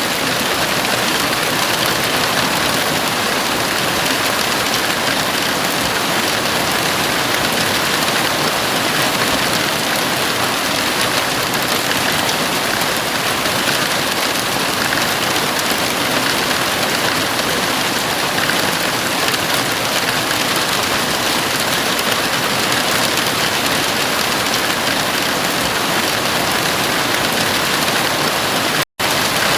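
Heavy rain falling steadily on the roof of a house, a dense unbroken hiss of drops. It cuts out for a split second near the end and then carries on.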